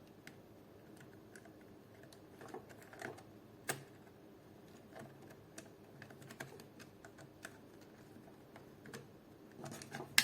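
Faint, scattered light clicks and taps of small parts and tools being handled while an airsoft AK is worked on, with a sharper click a few seconds in and a louder one at the end.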